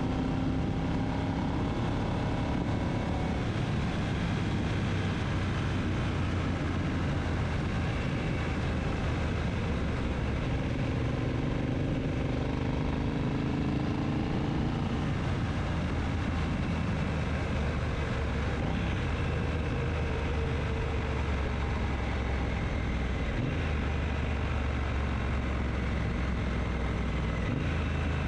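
Triumph Bonneville T120 parallel-twin engine running steadily while riding, its pitch rising for a few seconds around the middle as the bike picks up revs.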